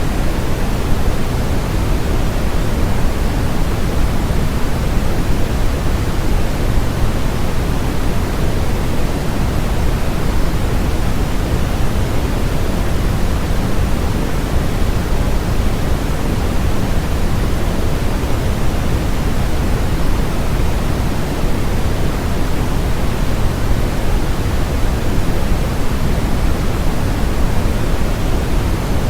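Steady electronically generated noise, sold as white noise: an even, unchanging rush with no events, heavier in the low end than in the highs.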